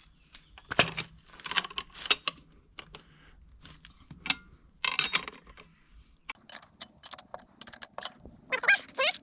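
Metal tools clinking and clicking against the strut as the shock absorber's top nut is undone by hand, in irregular knocks that come faster and sharper in the second half.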